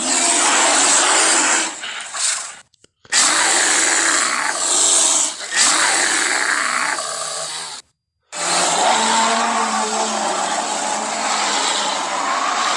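Cave bear roar sound effects: three long, harsh, raspy growling roars, each lasting several seconds, separated by two short silences.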